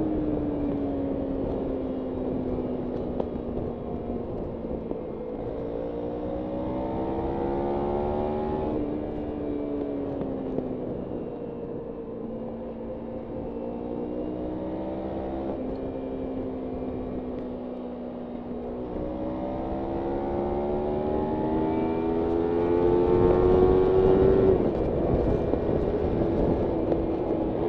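Kawasaki Ninja 300 parallel-twin engine heard from the bike, revs falling off and then climbing through the gears. Two long rises in pitch each end in a sudden drop, about 9 s in and about 25 s in, as it upshifts.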